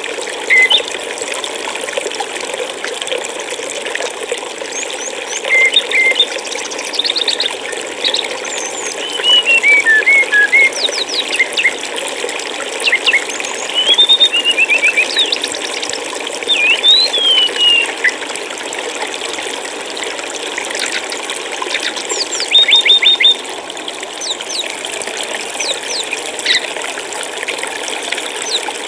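Steady flowing water, like a stream, under bursts of small songbirds chirping and trilling: short repeated notes and quick rising and falling calls come and go through most of the stretch, the loudest a fast run of chirps a little after the twenty-second mark.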